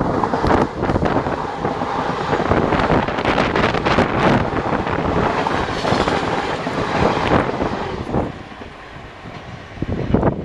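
Passenger train running past at high speed: a dense rush of wheel clatter and rolling noise with wind buffeting the microphone, which falls off about eight seconds in and picks up again near the end.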